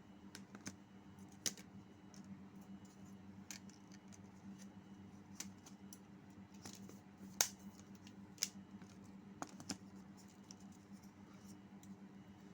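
Small sharp clicks and taps from a smartphone being worked on by hand during a battery change, scattered irregularly with the loudest about seven and a half seconds in, over a faint steady low hum.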